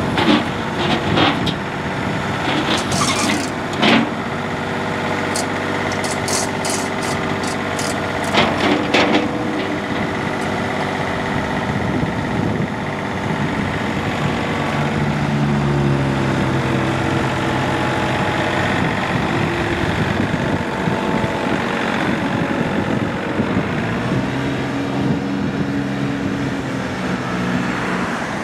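John Deere 3720's three-cylinder turbo diesel engine running, with several sharp knocks and clicks in the first several seconds. From about halfway through, the engine's pitch rises and falls as its speed changes.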